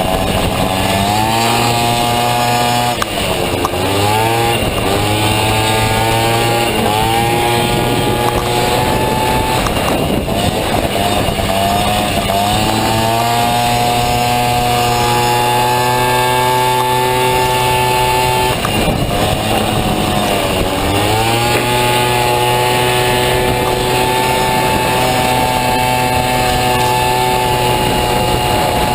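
Honda Dio two-stroke 50cc scooter engine in a Honda Motocompo racing hard at high revs, dropping off throttle sharply several times (about 3, 7, 11 and 20 seconds in) and winding back up to a long steady high-rev note.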